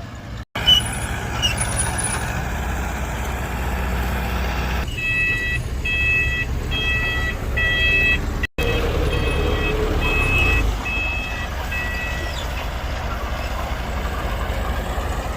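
Heavy diesel earthmoving machinery running steadily with a deep rumble. From about a third of the way in until about three-quarters through, a reversing alarm beeps at an even pace, about one and a half beeps a second, as a machine backs up. The sound cuts out for an instant twice.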